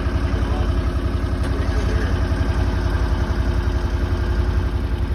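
A vehicle engine running steadily at an even speed, with a low, rapid pulse.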